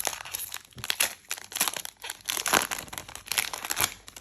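A trading-card booster pack's plastic wrapper crinkling in several bursts as it is torn open and handled.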